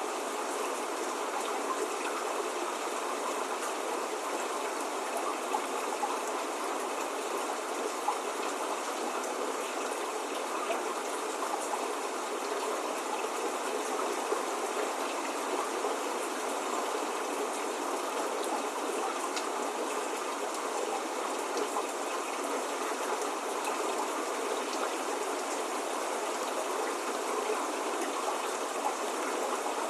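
Steady spring rain falling, an even hiss of drops with occasional louder single drops ticking, without thunder.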